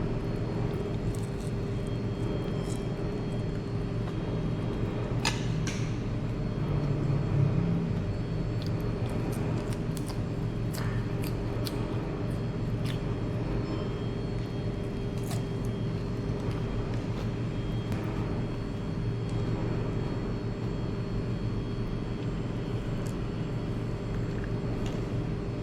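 Steady low rumble and hum of background ambience, with a few faint light clicks now and then.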